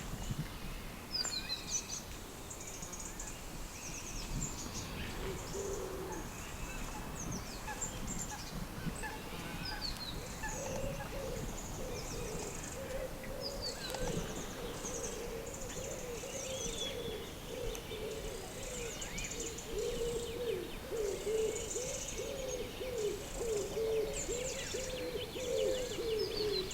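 Waterfowl calling: from about ten seconds in, a run of short, low calls repeating several times a second, while small birds chirp and trill high above.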